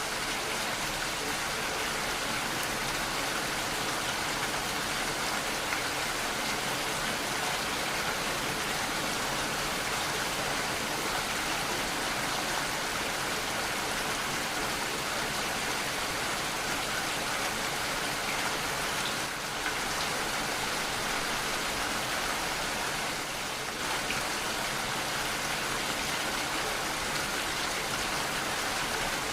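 Steady rain falling, an even hiss of rain.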